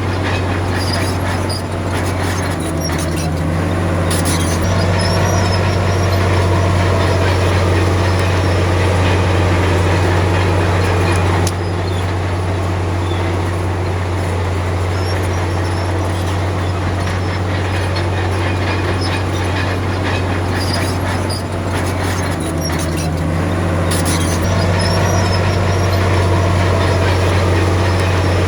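Komatsu D53P bulldozer's diesel engine running steadily under load, a low drone with metallic clanking and squeaking from its steel tracks. The engine note changes briefly twice, a few seconds in and a little past twenty seconds in.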